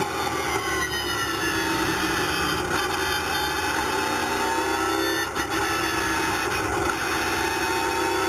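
Nissan Altima V8 Supercar's V8 engine running on track. Its note sinks slowly through the middle and climbs again toward the end.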